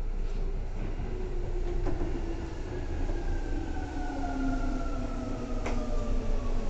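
Seibu 2000 series electric train running, its motor and gear whine falling steadily in pitch as the train slows, over a steady low wheel-on-rail rumble. Two sharp clicks, about two seconds in and near the end.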